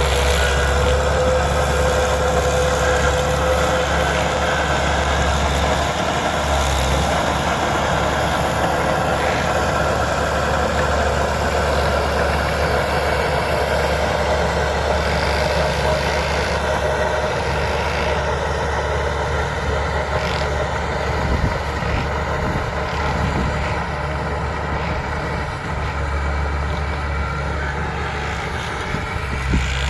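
Bulldozer's diesel engine running steadily under work, with a high whine that falls slightly in pitch over the first few seconds.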